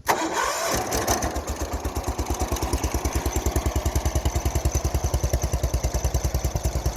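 Allis-Chalmers 712H garden tractor's 12 hp Kohler engine starting: it is cranked and catches within about the first second. It then settles into a steady, evenly pulsed run while still cold.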